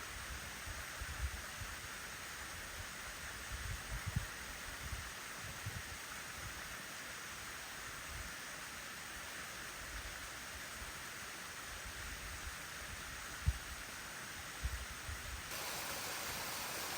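Steady hiss of running water from a waterfall, with scattered low thumps. Near the end the hiss turns brighter and a little louder.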